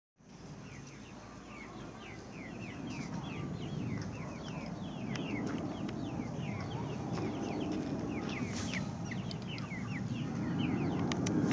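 Birds chirping over and over in short, falling notes, over a low rumble that grows steadily louder: a Boeing 737-500's jet engines heard from afar.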